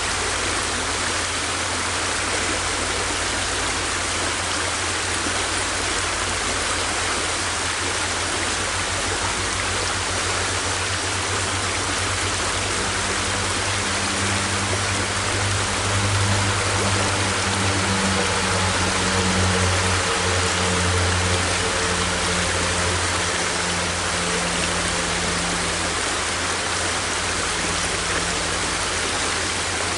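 River water rushing and splashing steadily. A low hum swells in the middle and fades again.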